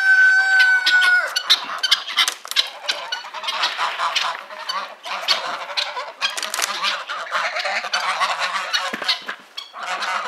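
A flock of domestic geese honking continuously, many calls overlapping. A long, steady rooster crow ends about a second in.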